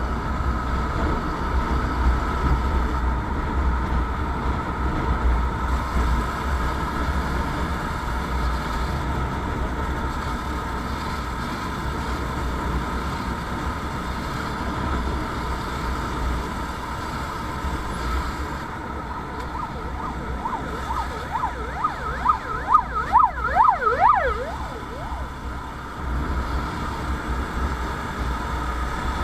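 Steady low rumble of traffic and wind with a constant hum; about two-thirds of the way through, an emergency vehicle's siren sounds for a few seconds in fast rising and falling sweeps.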